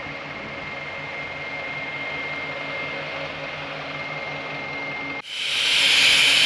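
Isuzu NPS truck's diesel engine running steadily with an even hum and a thin high whine. About five seconds in it cuts off suddenly and a louder, steady hiss takes over.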